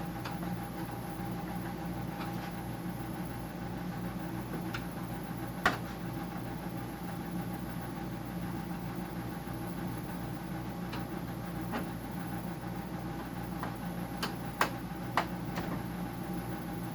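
Steady hum of a running Whirlpool dehumidifier's compressor and fan, with a few sharp clicks about six seconds in and twice near the end.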